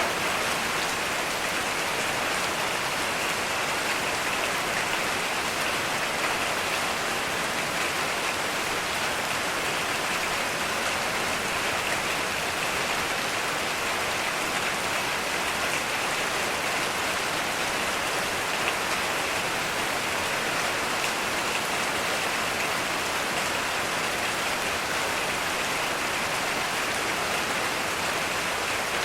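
Heavy rain falling steadily, a dense even hiss of many drops with no thunder.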